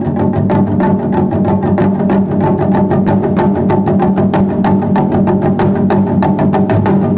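Japanese taiko drums played in a fast, even rhythm of about five or six strikes a second.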